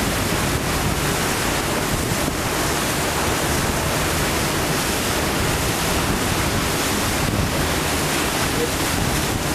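Steady rush of wind and water on a moving river boat, with wind blowing across the microphone.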